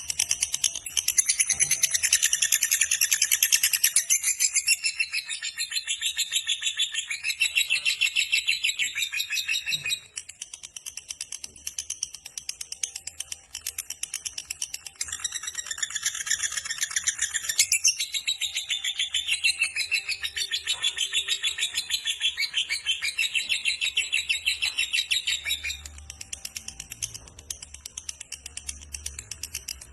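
Lovebird giving its long, rapid chattering trill (ngekek panjang), high-pitched and fast-repeating, in two long runs of about ten seconds each, with quieter chatter between them and near the end.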